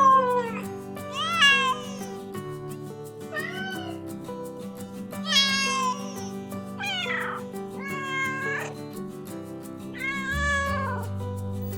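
Domestic cat meowing repeatedly, about six separate meows a second or two apart, each bending up and then down in pitch. Background music with a steady beat runs underneath.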